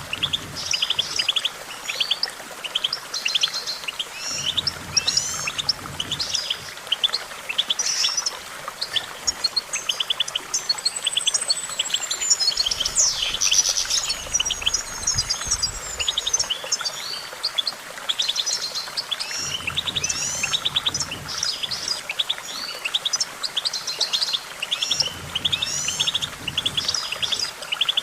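European goldfinch singing: a long, continuous run of rapid liquid twitters and trills, with a drawn-out sliding whistle about halfway through.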